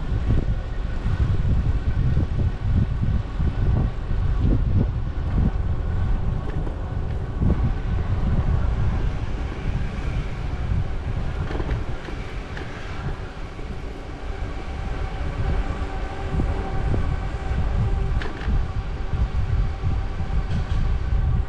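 Wind buffeting the microphone on a moving bicycle, a heavy gusty rumble, with a steady mechanical hum of several held tones running under it.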